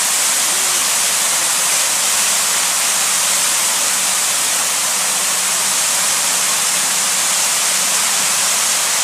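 Large park water fountain's jets splashing, a steady dense hiss of falling water.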